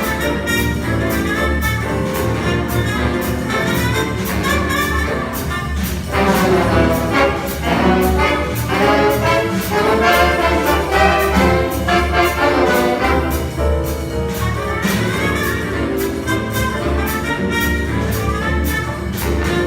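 Jazz big band playing a swing chart: brass and saxophones over a steady drum beat, with the full ensemble coming in louder about six seconds in.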